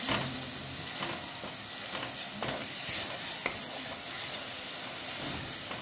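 Tomato-and-spice tadka sizzling in ghee in a metal kadai while a wooden spatula stirs it, scraping the pan now and then. The masala is being fried until the ghee separates out of it.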